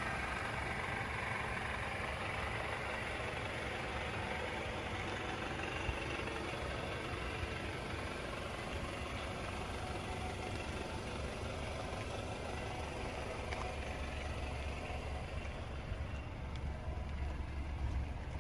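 Mercedes-Benz C300 sedan's engine idling steadily, a low, even rumble.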